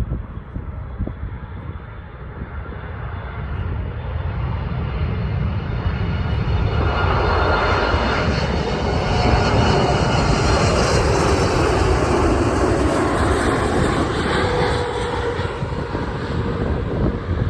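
Boeing 747-8F freighter's four GEnx turbofan engines as it comes in to land. The engine roar builds over the first several seconds, is loudest around the middle, then eases slightly.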